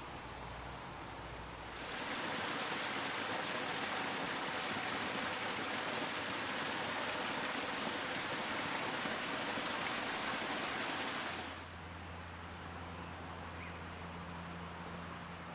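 Steady rush of flowing water, like a stream or small cascade, starting about two seconds in and cutting off near the end, leaving a faint low hum and hiss.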